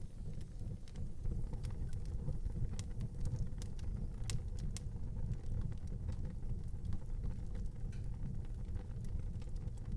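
Wood fire burning in an outdoor fireplace: a steady low rumble with scattered small crackles, and two sharper pops a little over four seconds in.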